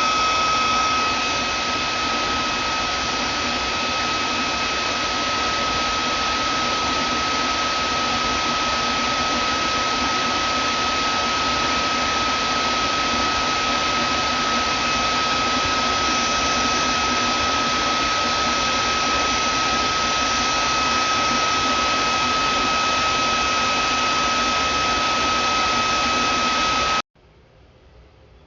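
Vacuum cleaner running steadily: a hiss of rushing air with a high, steady motor whine. About a second and a half before the end it cuts off suddenly.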